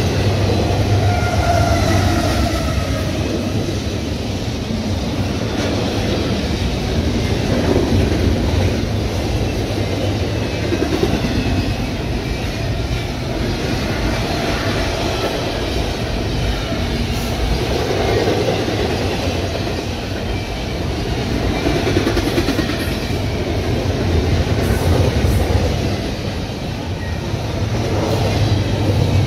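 Double-stack intermodal container train passing at close range: a steady rumble of steel wheels rolling on the rails, swelling and easing slightly as the cars go by.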